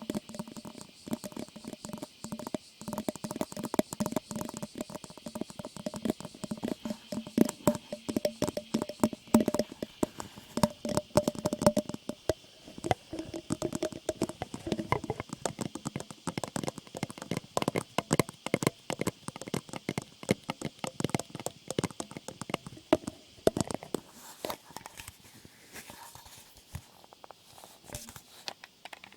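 Close-miked ASMR trigger sounds: rapid, irregular clicking and crackling, as from hands handling or working a material right at the microphone. They thin out and grow quieter over the last few seconds.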